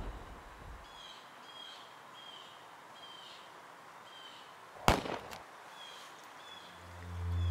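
A bird calling over and over in short falling chirps. About five seconds in comes a single sharp bang, the loudest sound, with a brief echo, like a distant gunshot in the woods.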